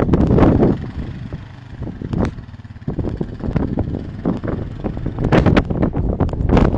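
Snowstorm wind buffeting the microphone in gusts, a low rumble with crackle. It eases for a second or so after the start, then picks up again.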